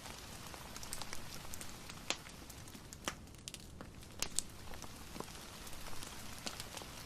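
Fireplace crackling with irregular sharp pops over a steady hiss of rain.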